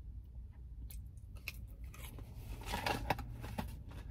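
Close-miked chewing of a McDonald's chicken nugget: soft scattered mouth clicks, then a louder, denser flurry of clicks about two and a half seconds in that lasts about a second.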